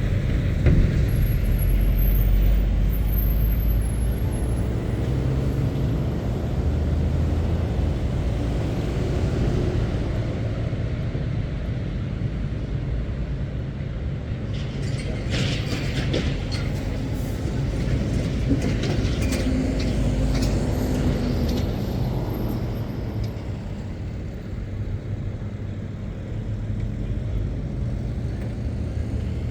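Heavy goods lorries driving past, their diesel engines rumbling low and swelling and easing as they go by. A cluster of short bursts of noise comes about halfway through.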